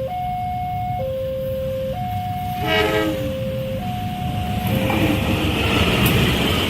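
Railway level crossing alarm alternating between two tones about once a second; about three seconds in a train horn gives one short blast. From about five seconds a train runs past over the crossing, its wheels on the rails rising to a loud rush with a high ringing whine.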